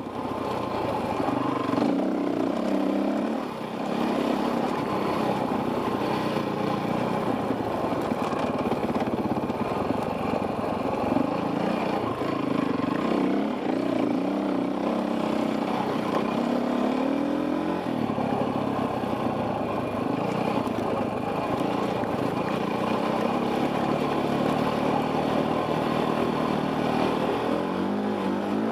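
Enduro dirt bike engine running under load on a trail, its pitch rising and falling with the throttle.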